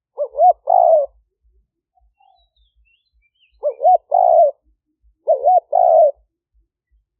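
Spotted dove cooing: three phrases, each two short notes followed by a longer one, about every two and a half seconds.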